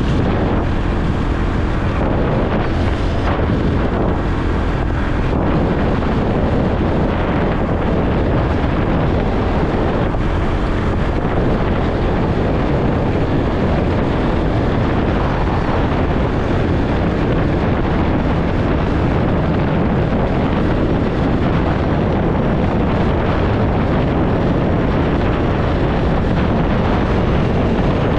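Motorcycle riding at a steady speed, its engine and road noise mixed with heavy wind rushing over the microphone.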